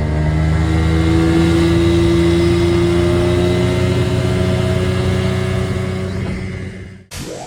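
An engine running steadily with its pitch slowly rising as it speeds up. It cuts off abruptly near the end with a brief swoosh.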